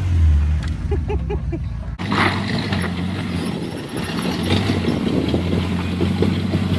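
Jeep engine running at a steady low idle. About two seconds in, an abrupt cut switches to another engine running with a rougher, noisier rumble.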